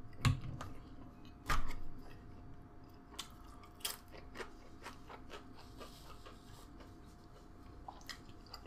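A man chewing a mouthful of food, with scattered sharp mouth clicks and two louder knocks in the first two seconds.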